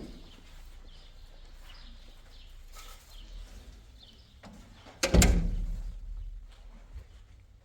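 A single loud bang about five seconds in that rings and fades over about a second, with faint bird chirps and small knocks around it.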